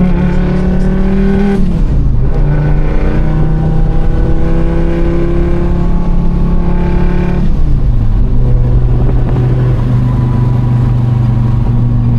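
Fiat Marea's 2.4 five-cylinder engine under full throttle, its note rising slowly through each gear. It shifts up twice, about a second and a half in and about seven and a half seconds in, the pitch dropping at each shift.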